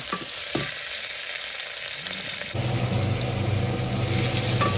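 Onions and vegetables sizzling as they are stir-fried in a stainless steel pot, a wooden spoon stirring and knocking against the pot now and then. About two and a half seconds in the sound changes abruptly and a steady low hum runs under the sizzle.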